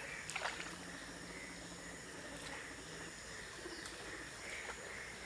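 Faint outdoor background with a steady thin high hum and a few soft clicks.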